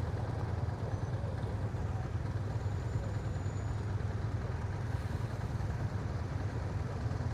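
Motorcycle engine running steadily, a low even hum with no revving.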